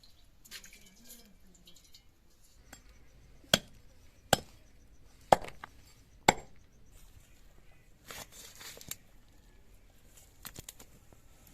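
Four sharp chops of a knife striking a cutting board, about a second apart, with softer rustling handling sounds after them.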